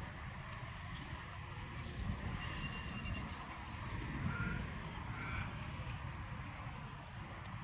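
Wind rumbling on an outdoor microphone, with a few faint bird chirps and a brief high pulsed beep about two and a half seconds in.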